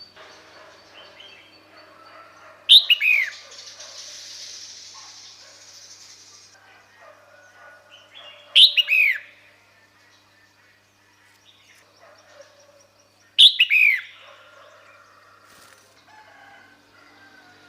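Red-whiskered bulbul calls, given as the female's call that draws a male in. Three short bursts of quick downward-sweeping notes, repeated about every five to six seconds, with faint chirping of other birds between them.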